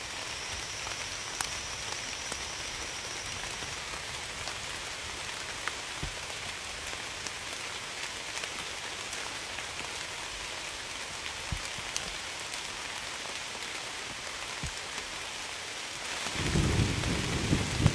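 Steady rain hissing, with scattered drips ticking. Near the end, low rolling thunder rumbles in.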